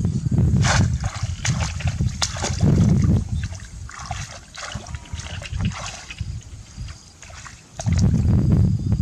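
Water splashing and sloshing in irregular bursts, as when fish are grabbed by hand in shallow water, with heavy low rumbling that is loudest in the first three seconds and again near the end.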